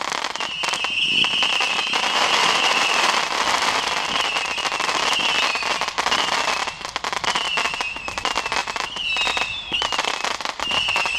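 Fireworks going off in quick succession: a dense crackle of small bangs, with short, high, warbling whistles repeating over it.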